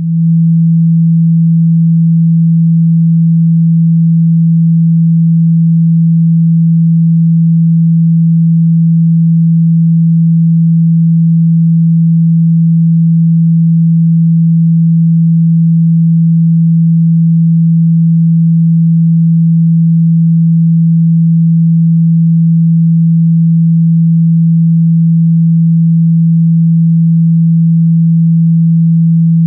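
A continuous 165 Hz sine tone, loud and unchanging: a low hum played to shake water and dust out of a phone or loudspeaker.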